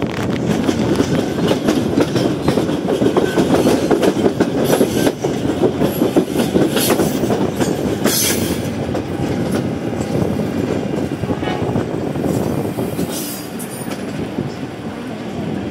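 Electric commuter train moving off from a station, its wheels rattling and clattering over the rails and track joints, with several sharp clanks along the way. It is heard from beside the car, and the noise eases a little near the end.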